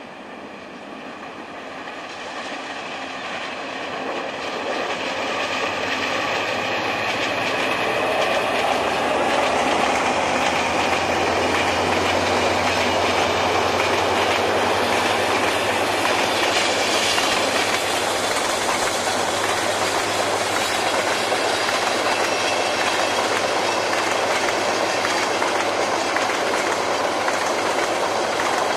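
Diesel-hauled passenger train passing through without stopping. It grows louder over the first several seconds as the locomotive comes by, then the coaches run past with a steady clickety-clack of wheels over the rail joints.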